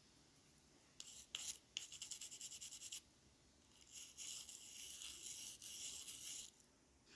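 Small brush scrubbing grime and oxidation off the contact tracks of a DT830D digital multimeter's circuit board, in quick strokes. There is a short spell of strokes about a second in and a longer run from about four seconds.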